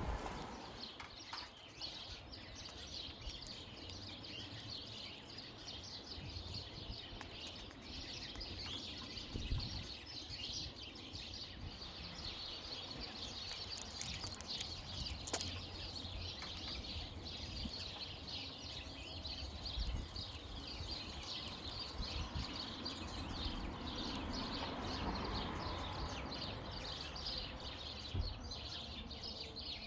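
Many small birds chirping continuously, a dense chorus of short high calls, over a faint low rumble.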